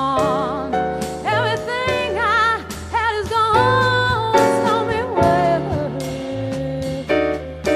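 Live jazz combo playing a slow ballad: a sustained melody line with a wide vibrato, which sounds like the female vocalist, over piano, bass and drums.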